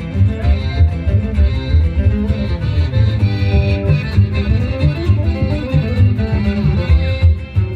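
Live chamamé band playing an instrumental passage between sung verses: guitars and accordion over a steady pulsing bass.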